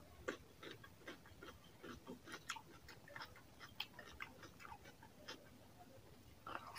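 Close-miked eating sounds of a man chewing a mouthful of chicken curry and rice: soft, irregular wet smacks and clicks, several a second.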